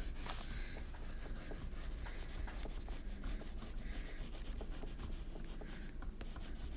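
Water-soluble wax pastel crayon rubbed over paper in many quick strokes, a steady scratchy scraping.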